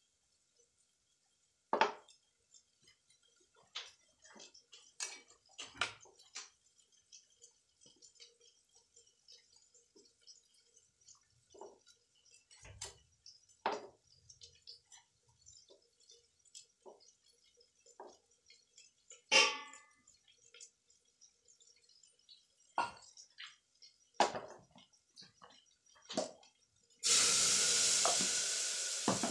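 Scattered clinks and taps of steel utensils and containers, then near the end a sudden loud, steady sizzle as food is tipped from a steel container into a hot aluminium pot on a gas flame.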